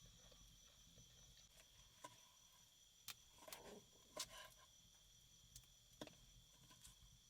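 Faint steady high-pitched drone, with scattered soft clicks and taps, the loudest a little over four seconds in.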